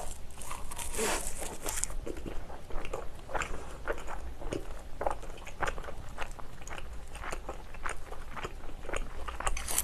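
Close-miked chewing of a mouthful of rice wrapped in roasted seaweed (gim). Crisp crackling crunches come in the first two seconds, then softer chewing with many small crunches and clicks.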